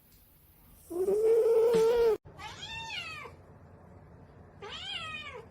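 A cat meowing: one long, loud, drawn-out meow that cuts off suddenly, then two shorter, higher meows that rise and fall.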